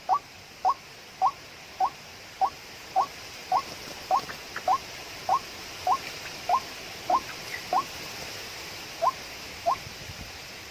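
White-breasted waterhen (ruak-ruak) call: a short rising note repeated about every 0.6 s, some sixteen times, with a brief gap near the end. Under it runs a steady high insect drone.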